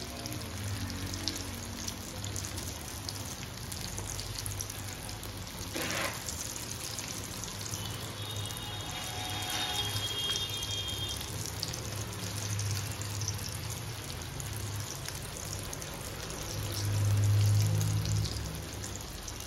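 Kebab patties shallow frying in hot oil in a nonstick pan: a steady sizzle, with a low hum underneath that swells near the end.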